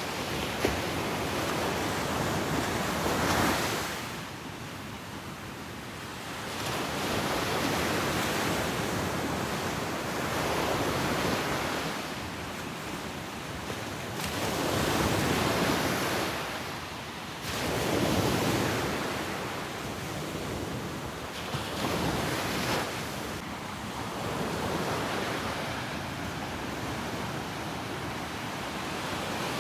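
Ocean waves breaking on a beach, each surge swelling and washing back every few seconds, with some wind on the microphone.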